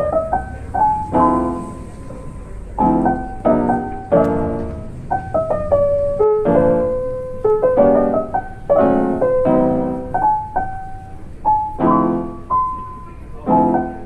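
Background piano music: chords struck one after another and left to die away, with single held melody notes between them.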